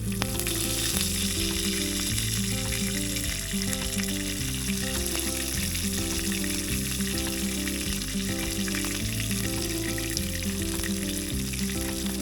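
Food sizzling steadily in a hot pan, with fine crackles, under background music with a steady, stepping bass line.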